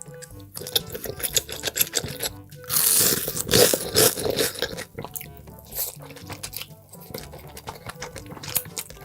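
Close-up eating sounds: crunching and chewing in quick bites, with a louder, denser stretch of noisy mouth sound about three seconds in lasting over a second, over background music.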